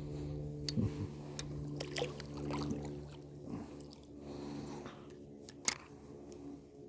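Small knocks and splashes of water against a kayak, several sharp clicks and one louder knock near the end, over a steady low hum.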